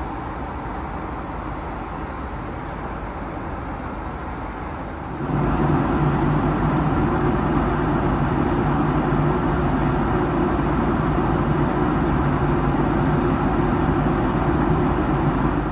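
Steady jet cabin noise aboard a Boeing 767 airliner, stepping up abruptly about five seconds in to a louder, deeper, steady rumble.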